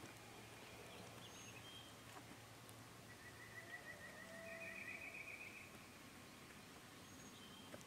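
Faint songbird calls in spring woods: a rapid trill about three seconds in, with a few short, high whistles around it, over quiet background.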